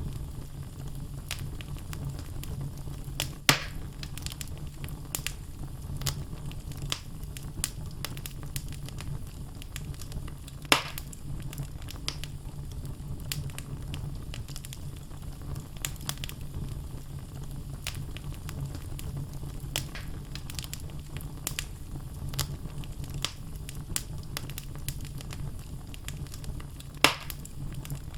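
Wood logs burning in a fireplace, crackling with scattered sharp snaps over a steady low rumble of the flames, and three louder pops.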